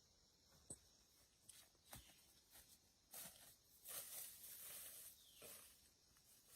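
Faint rustling with a few light clicks and knocks; the rustle is loudest for a couple of seconds past the middle.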